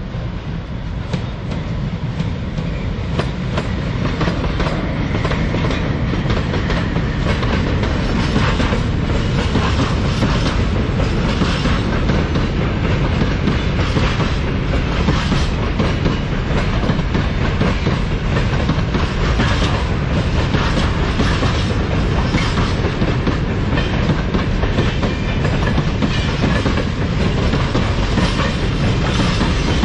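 Freight train rolling past, its wagon wheels clattering in a steady clickety-clack over the rail joints, growing louder over the first few seconds and then holding.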